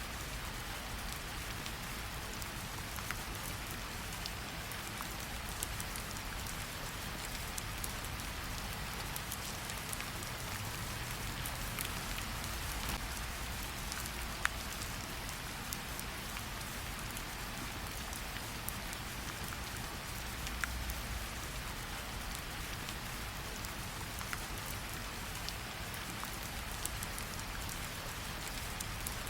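Steady rain with a wood fire crackling: an even hiss of rain with scattered sharp pops and clicks.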